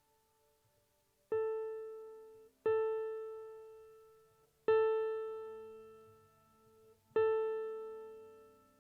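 Keyboard striking the same single note, an A near 440 Hz, four times, each ringing and dying away before the next. It is the tuning A sounded for the orchestra.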